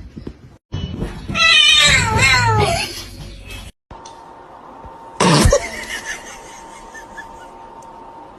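A cat meowing: a long, loud, wavering yowl, then a short meow about five seconds in.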